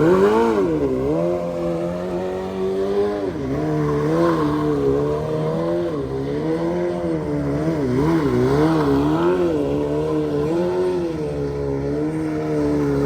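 Stunt sportbike's engine revving up and down over and over, its pitch rising and falling about once a second as the rider works the throttle.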